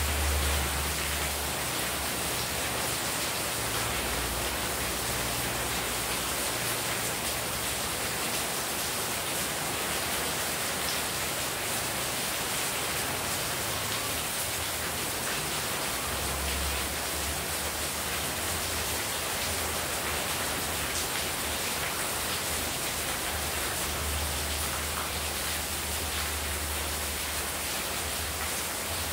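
Heavy rain falling steadily, with rainwater pouring off the roof edge onto the wet courtyard floor and plants. A low rumble comes and goes underneath.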